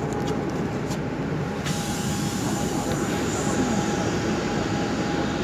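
Steady engine and rolling noise inside a city bus, with a higher hiss coming in about a second and a half in.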